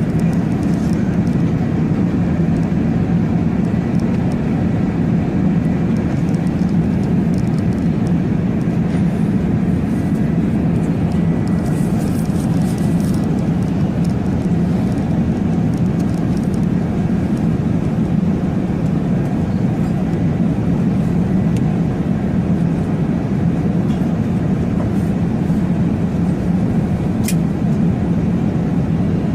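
A steady low mechanical drone holding an even level throughout, with a faint thin high tone above it in the first half and a single sharp click near the end.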